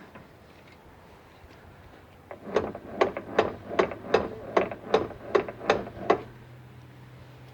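A quick, even series of about ten sharp knocks, roughly two and a half a second, starting a couple of seconds in and stopping abruptly; a faint low hum follows.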